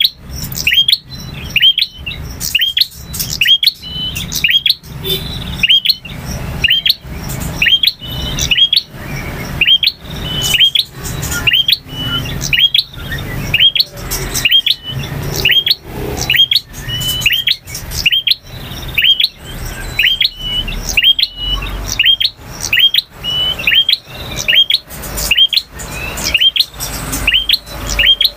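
Male prinia (prenjak) singing, loud sharp chirps repeated about once a second, each a quick upward-hooked note with a crackling edge.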